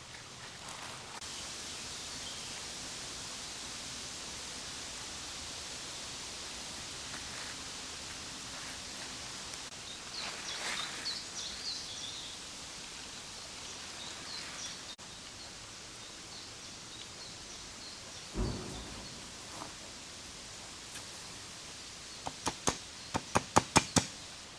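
Steady outdoor hiss with light rustling, a single thump, then near the end a quick run of about eight sharp knocks in about two seconds, the loudest sounds here.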